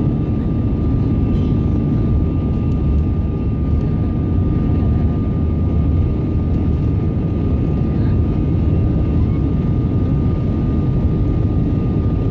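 Steady cabin noise inside an Airbus A320-200: a loud, even rumble with a thin, steady high whine running over it.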